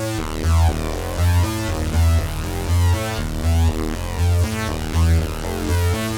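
Dreadbox Typhon analog monophonic synthesizer playing a factory preset as a repeating sequenced pattern: a deep bass note pulses about every three quarters of a second under quick stepping notes, with sweeping upper tones.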